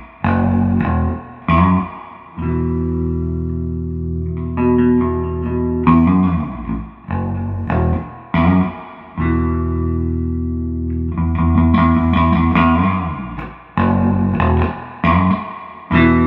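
Electric bass guitar played through a 1973 Fender Twin Reverb combo amp with its reverb turned up, driving 1978 CTS Special Design speakers. Short plucked notes alternate with long held notes and chords.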